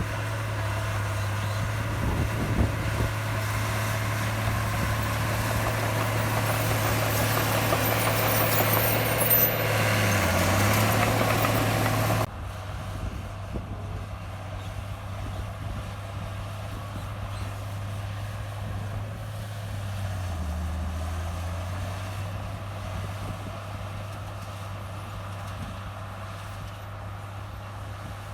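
Heavy diesel engine of a Komatsu bulldozer running steadily, with a louder, noisier stretch that cuts off abruptly about twelve seconds in. The engine note dips briefly twice, about ten and twenty seconds in.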